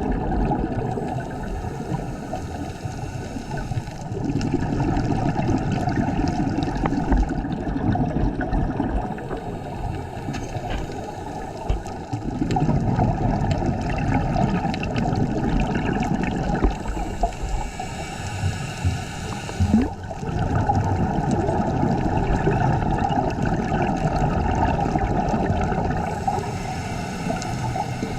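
Scuba regulator breathing heard underwater: exhaled bubbles gurgling and rumbling in swells a few seconds apart, with the hiss of an inhalation about two-thirds of the way through.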